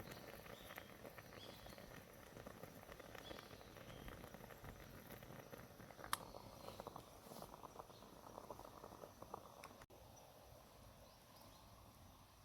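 Faint outdoor ambience with scattered small clicks and crackles, one sharper click about six seconds in, and the sound dropping out for an instant near the end.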